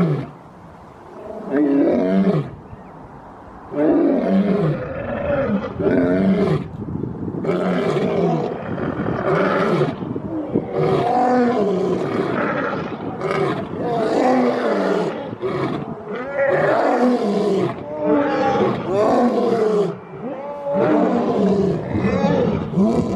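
Lion roaring again and again, one call after another with only short gaps.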